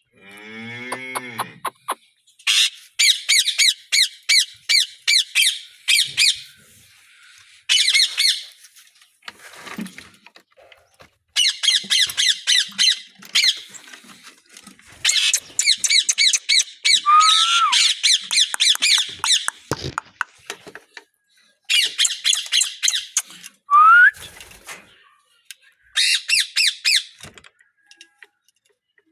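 Parrots squawking in rapid chattering bursts of a few seconds each, with pauses between them and a few short rising whistles.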